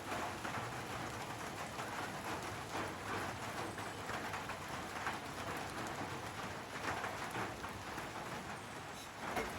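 Steady rain falling, a continuous hiss of many small drops landing.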